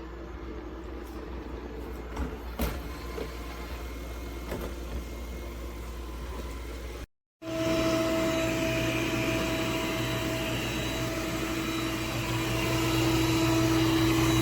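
Robot vacuum running with a steady motor hum and a few light clicks. The sound cuts out briefly about seven seconds in, then comes back louder as a steady drone with a whine.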